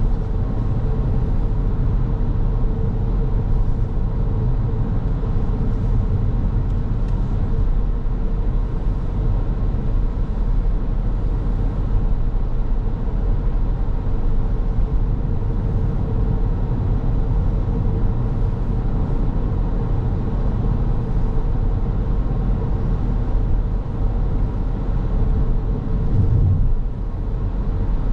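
A car driving along a road: steady tyre and road rumble with a low engine hum and a faint steady tone, dipping a little near the end.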